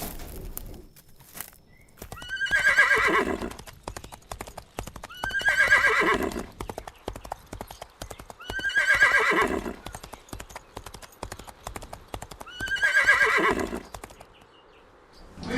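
Horse neighing four times, each whinny starting high and falling in pitch, about every three to four seconds, over a quick steady patter of hoofbeats.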